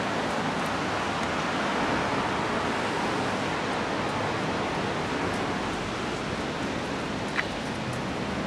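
Steady rushing noise of wind on the phone's microphone, with an uneven low rumble, and one brief high chirp about seven seconds in.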